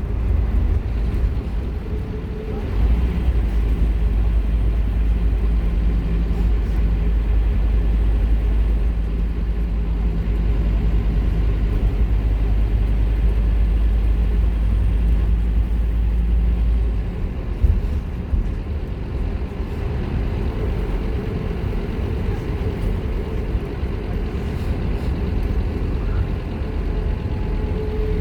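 Scania K230UB Omnilink bus's diesel engine heard on board, working hard with a deep drone from about three seconds in. The engine note drops away sharply about seventeen seconds in, a click follows, and it runs on more quietly with a faint whine for the rest.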